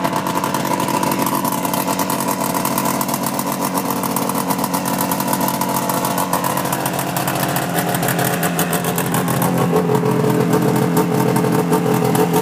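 1988 Ski-Doo Safari 377 snowmobile's two-stroke engine running steadily at idle after a cold start. Its note shifts and gets a little louder about eight to ten seconds in.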